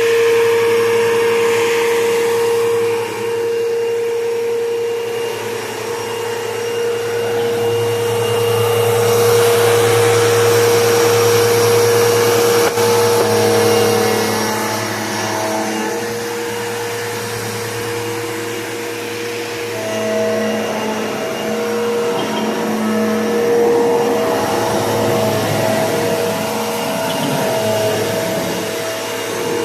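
Bissell PowerForce Bagless Turbo 6596 vacuum cleaner running continuously: a steady motor whine over airflow noise, its loudness rising and easing gently. A second, higher tone joins the whine about twenty seconds in.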